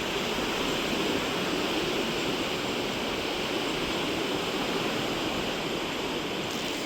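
Baltic Sea surf washing onto the beach: a steady rush of waves.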